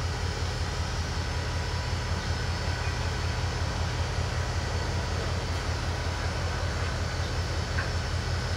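Locomotive standing and idling: a steady low rumble with no change in pace.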